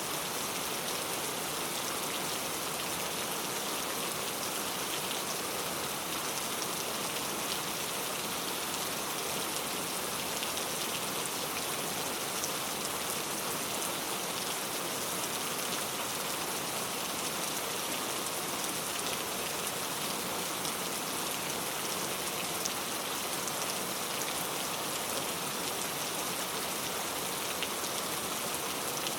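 Steady rain falling, an even hiss of drops on a surface with faint scattered individual drop ticks.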